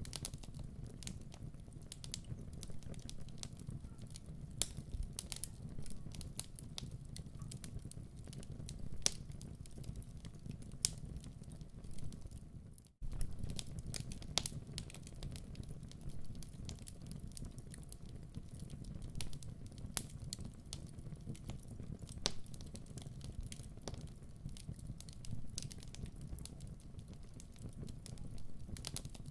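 Wood fire crackling in a fireplace: a steady low rumble of burning with irregular sharp pops and snaps. The sound cuts out for a moment about 13 seconds in, then carries on.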